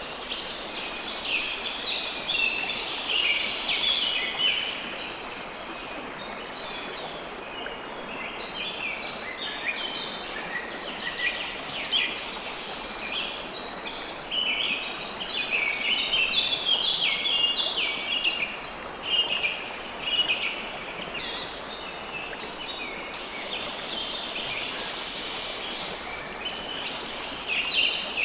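River water flowing steadily, with many birds chirping over it in quick, overlapping short calls.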